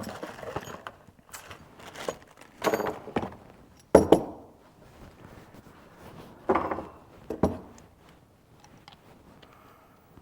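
Irregular clicks, knocks and light rattles of things being handled, with the sharpest knock about four seconds in.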